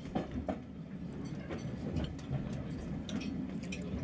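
Railway passenger coach running along the track, heard from inside: a steady low rumble with irregular light clicks and rattles.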